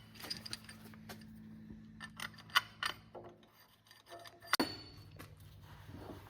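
Metal parts of a crawler steering clutch clinking and scraping as they are handled, with a handful of sharp clinks and one louder metallic clank with a short ring about four and a half seconds in. A faint steady low hum runs underneath.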